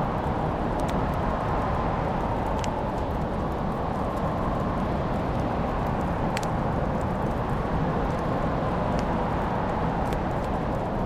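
Wood fire crackling: scattered sharp pops and snaps over a steady low rushing sound.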